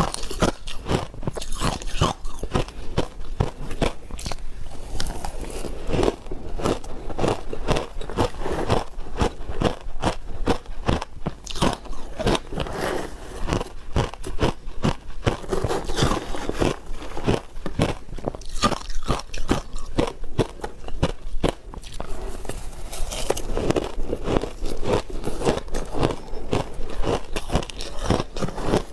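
Close-miked crunching of ice being bitten and chewed: a rapid, continuous run of sharp cracks and crunches.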